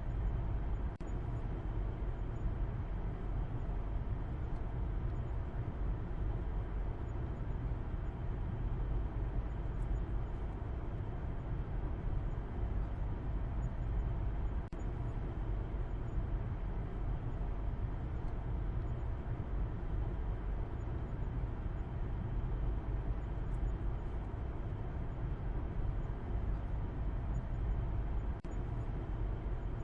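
Car noise as a steady, unchanging low rumble, deepest in the bass with a softer hiss above.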